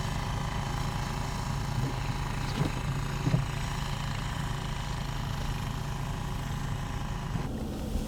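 A motor vehicle engine running steadily with a constant hum, a few faint knocks over it, and an abrupt change near the end.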